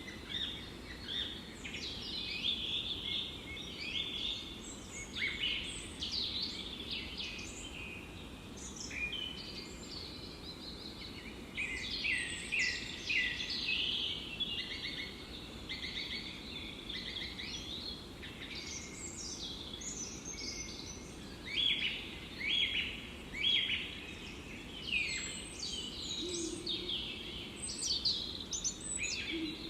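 Several birds singing and chirping in a forest, many short calls and trills overlapping throughout, over a steady low background hiss.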